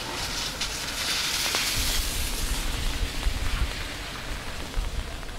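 Steady rain hiss, heavier for a couple of seconds starting about half a second in, over a low uneven rumble.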